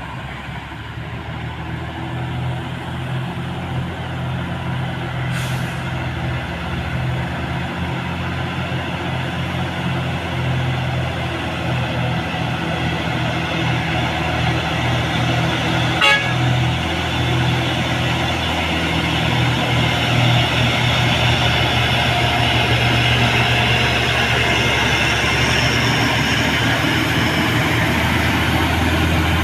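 Heavy diesel truck engine labouring up a steep climb, a steady low drone that grows gradually louder as the truck draws near. There is a brief hiss about five seconds in and a sharp click about halfway through.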